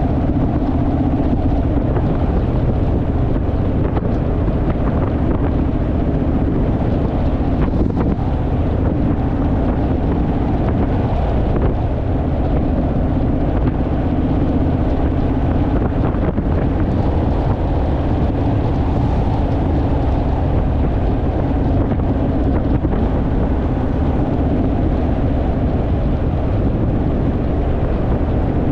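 Honda Rebel parallel-twin motorcycle engine running at a steady cruising speed, heard under loud wind buffeting on the microphone.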